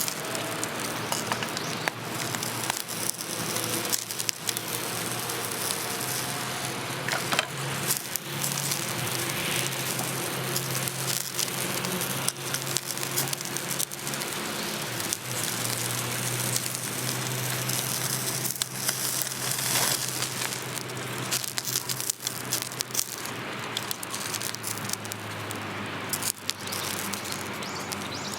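Wood fire crackling with many small pops, over the steady hiss of rain. A low steady hum comes and goes underneath.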